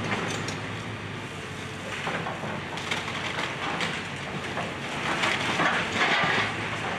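Excavator tearing down a house: wood cracking, splintering and crunching in irregular bursts over the machine's steady engine hum.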